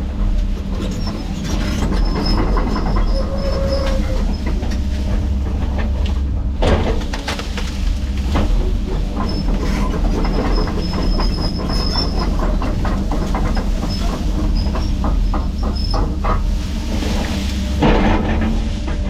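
A heavy tracked machine running: a steady diesel drone with constant clanking and intermittent high squeals from the tracks, and a couple of heavier bangs, about six seconds in and near the end.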